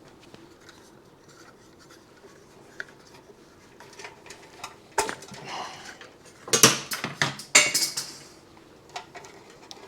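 Hand tools and metal motorcycle parts clinking and rattling as they are handled during disassembly. It is mostly quiet at first, with a few sharp clinks from about halfway, then a louder run of clatter just past the middle.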